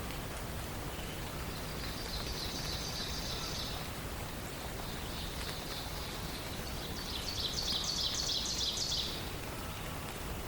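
Songbird trilling: fast runs of rapidly repeated high notes, one about two seconds in, a fainter one around five seconds, and the loudest near the end, each lasting a couple of seconds, over a steady rain-like hiss.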